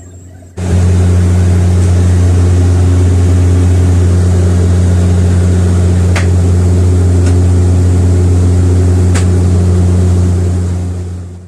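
Airliner engines heard from inside the cabin: a loud, steady drone with a deep hum that starts suddenly about half a second in and fades out near the end.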